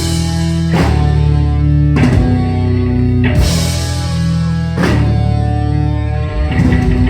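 Heavy metal band playing live: distorted electric guitar and bass hold long chords that change about every second and a half, each change hit with a crash cymbal, then a quick run of hits near the end as the song closes.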